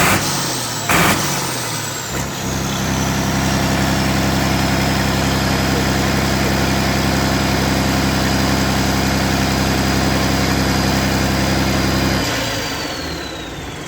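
Volvo TWD710V six-cylinder turbo-diesel engine of a diesel pump set running steadily, with a high turbocharger whine that settles to a steady pitch. About twelve seconds in the engine is shut off: its note stops and the turbo whine winds down as the sound fades. Two sharp knocks sound in the first second or so.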